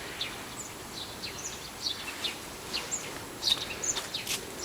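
Small songbirds chirping: many short, high chirps, scattered irregularly throughout, over a steady faint hiss of outdoor background noise.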